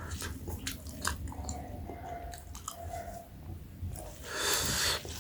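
Close-miked chewing of soft maize dhido and curry, with a run of wet mouth clicks, and a brief loud hiss lasting under a second near the end.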